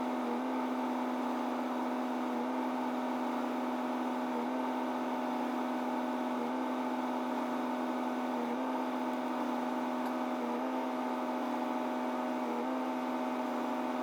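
Steady mechanical hum inside the cab of a RAM pickup with its Cummins 6.7 diesel idling a few minutes after a cold start and the heater blower running, with a slight pulse about every two seconds.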